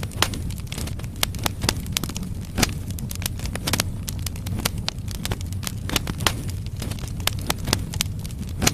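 Firewood logs burning in a fireplace: a steady low rumble of flame with frequent irregular sharp crackles and pops, a few louder snaps among them.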